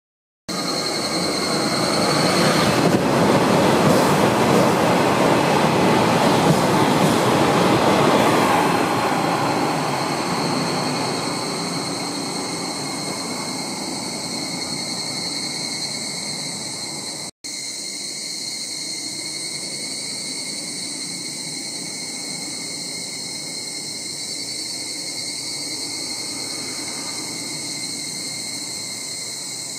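A Shinkansen train passing at high speed below, a loud rushing roar that builds over the first few seconds and fades away by about twelve seconds in. After a brief cut, steady high-pitched insect trilling.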